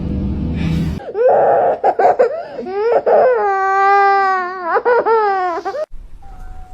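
A vocal cry: a run of short, pitched cries, then one long drawn-out cry that wavers and rises at the end, stopping suddenly near the end.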